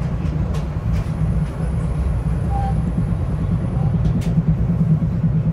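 Metro-North commuter train in motion, heard from inside the car: a steady low rumble of wheels on rail with a few sharp clicks. A faint thin high whine sounds for about three seconds from a second in.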